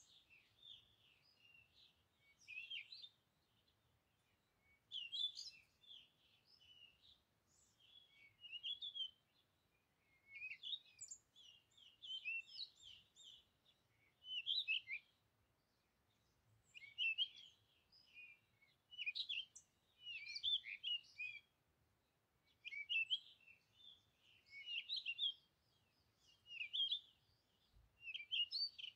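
Birds chirping and singing in short bursts of quick, high notes, a phrase every second or two.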